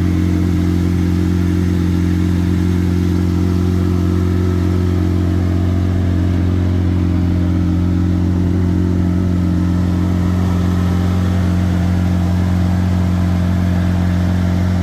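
Lamborghini Aventador SV's 6.5-litre V12, fitted with a Gintani F1 exhaust, idling steadily as a deep, even drone that doesn't change in pitch.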